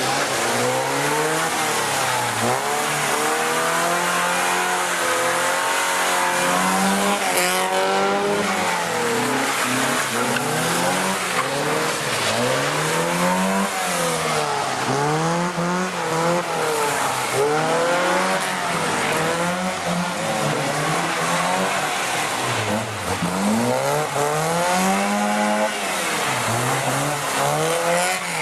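Car engine revving up and down over and over as the car slides around on wet pavement, with a steady rush of tyre noise.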